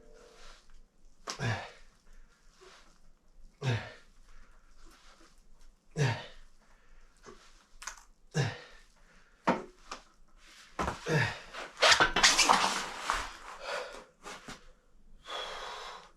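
A man's forceful breaths, huffing sharply about every two seconds as he works through a set of leg exercises. A longer, louder strained exhale comes about three-quarters of the way through.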